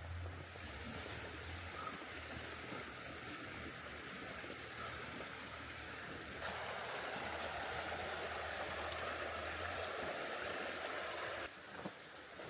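Steady rain falling, an even hiss. It grows heavier about six seconds in and drops back suddenly near the end.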